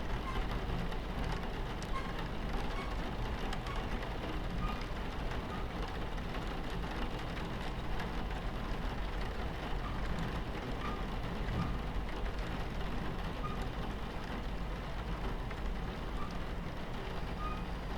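Steady low rumble of a train running on its tracks, heard from inside the carriage, with rain pattering against the window.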